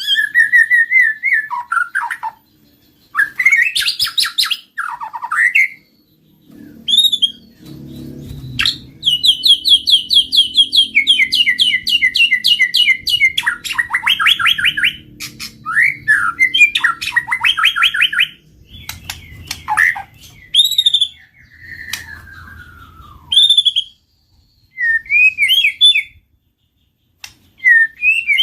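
White-rumped shama singing: loud, varied phrases of sliding whistles and rapid trills, broken by short pauses, with a long run of fast repeated notes through the middle.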